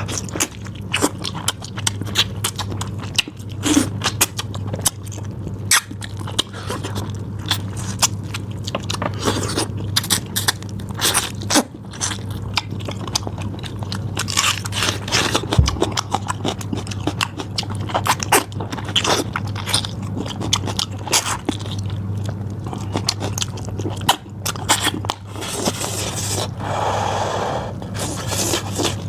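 Close-miked eating: steady chewing and biting with many crisp mouth clicks and crackles, over a constant low electrical hum.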